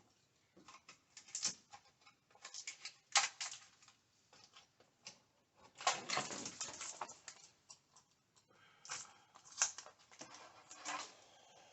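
Irregular taps, clicks and rustling scrapes of hand work, with a longer scraping rustle about six seconds in.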